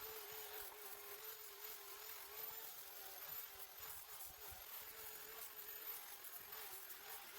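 Faint buzzing hum of an electric file sander working over grooves cut in wood, its pitch wavering slightly throughout.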